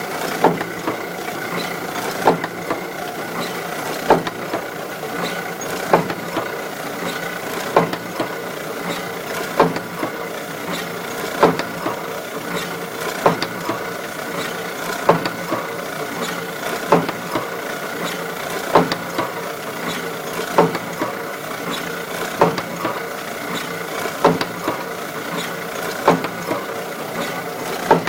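Kluge 14x22 die cutting and foil stamping press running, with a sharp knock on each cutting stroke, about one every two seconds, over a steady mechanical clatter. The knock on the cut is the noise the owner is concerned about.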